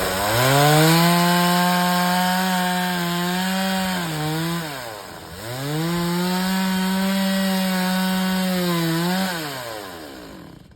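Two-stroke chainsaw revving to full throttle and held there while cutting wood. It drops back about four seconds in, revs up and holds again, then winds down near the end.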